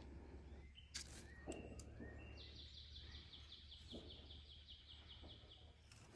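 Faint bird song: a few short rising notes, then a quick even trill of short high notes, about five a second, lasting about three seconds. A few faint knocks and a low steady hum lie underneath.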